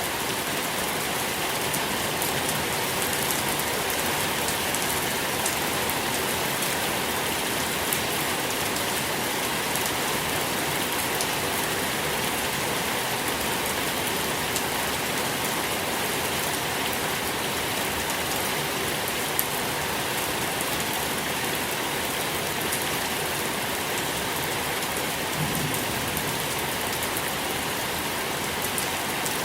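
Steady rain falling on a surface, an even hiss of many small drops with faint individual drop taps throughout.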